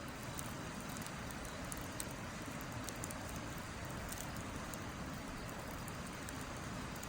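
Wood campfire crackling, with frequent small sharp pops and snaps at irregular intervals over a steady hiss.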